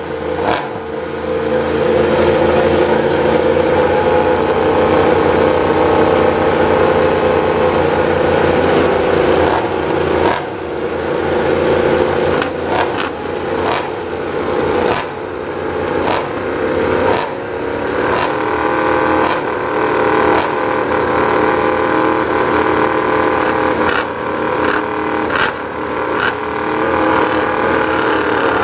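Yamaha MotoGP race bike's inline-four engine running, the revs rising and falling with repeated sharp throttle blips.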